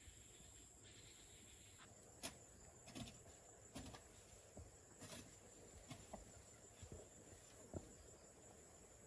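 Near silence: a faint, steady, high-pitched insect drone, with scattered soft knocks and taps starting about two seconds in.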